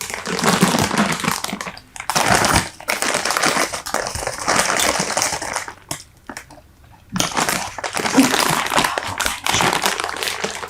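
Super Bubble bubble gum packaging crinkling as it is handled close to the microphone, loud and dense, in three long stretches with short pauses about two and six seconds in.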